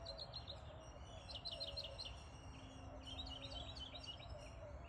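Several songbirds singing in a morning chorus: quick runs of high chirps repeating every second or so, with a lower wavering call underneath, over a steady low background rumble.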